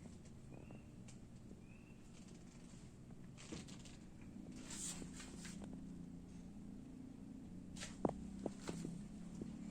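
Faint clicks and rustling of things being handled, over a low steady hum, with the sharpest click about eight seconds in.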